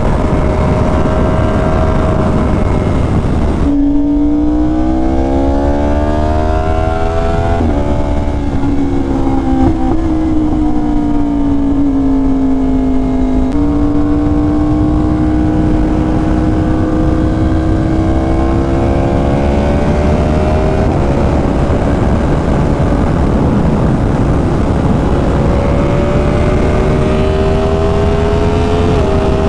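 Yamaha R1's crossplane inline-four under way, its exhaust note rising and falling with the throttle through several sudden gear changes. A quick drop in pitch a few seconds in, and steps again about halfway through and near the end.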